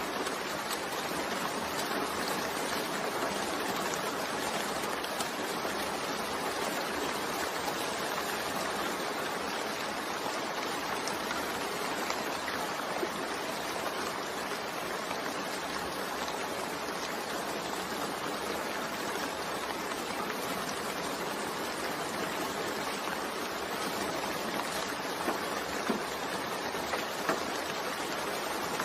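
Steady, continuous rain blended with white noise, an even hiss with faint scattered drop ticks and a few slightly sharper ones near the end.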